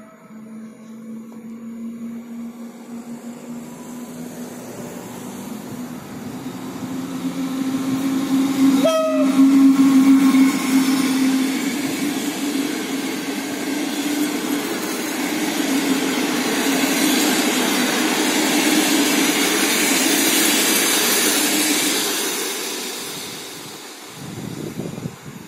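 Electric locomotive hauling a passenger train passes close by: a steady hum that slowly rises a little in pitch as it approaches, and a short horn blast about nine seconds in. Then the coaches roll past with loud wheel-on-rail noise that fades away near the end.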